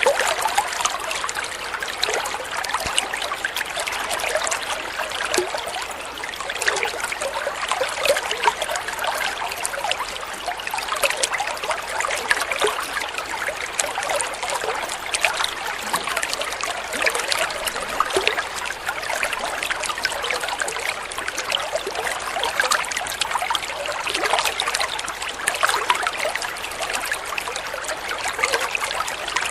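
Flowing water trickling and babbling steadily, with many small splashes and gurgles.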